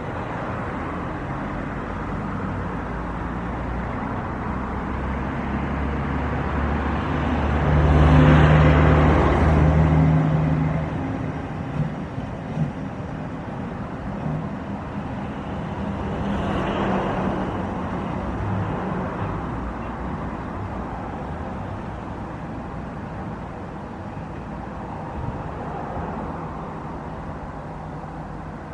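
Steady outdoor engine noise with two vehicles passing close: a loud pass with a low engine hum about eight seconds in, and a weaker one just after sixteen seconds.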